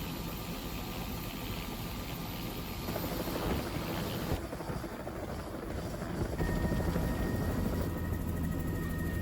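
Helicopter rotor and engine noise heard from inside a doors-off cabin, mixed with wind rushing over the microphone. It runs steadily, shifting in tone abruptly a few times.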